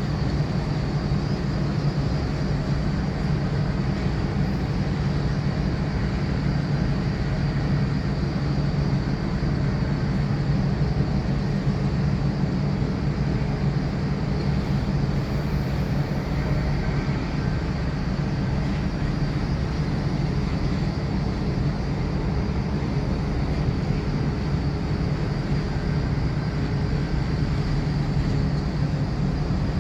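Steady low mechanical drone over an even hiss, holding level with no breaks or changes.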